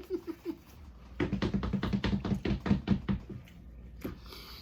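A woman laughing hard in a quick run of pulses, trailing off from a giggle, with a longer burst of laughter about a second in that lasts about two seconds.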